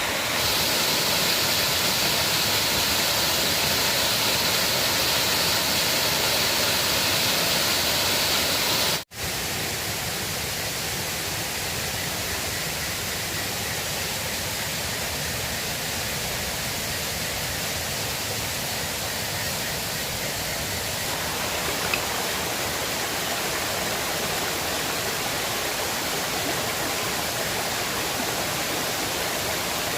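River water rushing in a steady, even flow. It cuts out for an instant about nine seconds in and resumes a little quieter.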